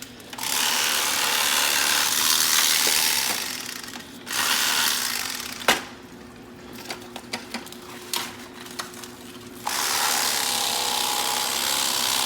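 Electric fillet knife running in bursts while carving a deep-fried turkey: a steady motor buzz for about three and a half seconds, again briefly, and again from about ten seconds in, with scattered clicks and knocks in the pauses between.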